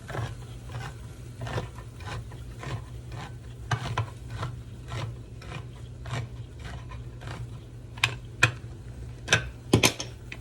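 A utensil stirring and scraping in a cooking pan, in short repeated strokes about two or three a second, with a few louder clinks against the pan near the end. A steady low hum runs underneath.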